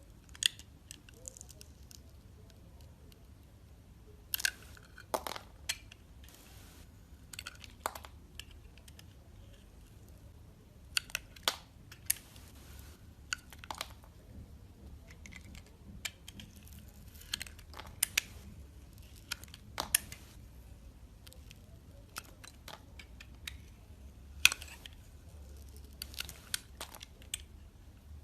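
Dry soap crunching and crackling as it is cut and crumbled up close: an irregular run of small sharp crackles, with several louder snaps scattered through.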